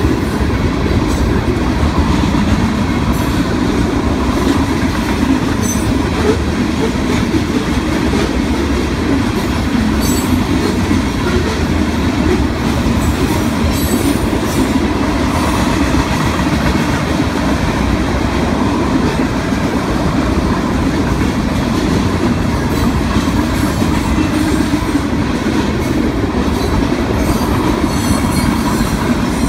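Freight train of double-stack container cars and covered hoppers rolling past close by: a steady, loud rumble of steel wheels on rail with scattered clicks throughout.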